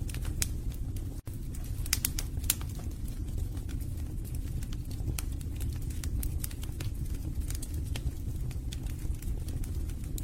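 Wood logs burning in a fireplace: a steady low rumble of flames with scattered crackles and pops, a cluster of sharper pops about two seconds in. The sound cuts out for an instant about a second in.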